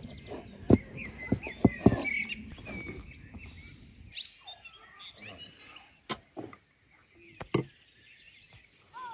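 Small birds chirping, in short calls mostly in the first half, with a few sharp knocks scattered throughout.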